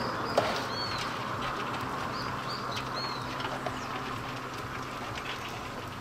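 A bird gives a few short chirps, four or so in the first three seconds, over a steady hiss that slowly fades. There is one faint click near the start.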